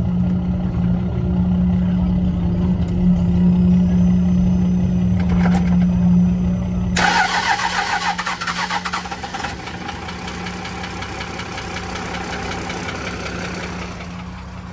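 A diesel truck engine being started cold and running. About halfway through, the sound changes suddenly: the heavy low rumble drops away and a brighter, harsher running sound takes over.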